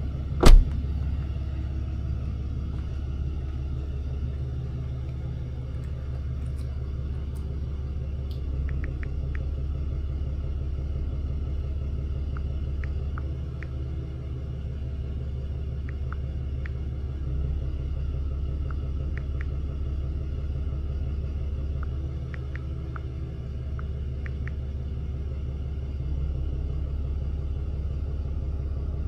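Tow truck engine running steadily, heard as a low rumble, with one sharp click about half a second in.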